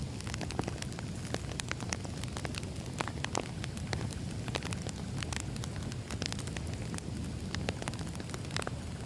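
Firewood burning, with a steady low rumble of the flames and frequent irregular sharp crackles and pops from the wood.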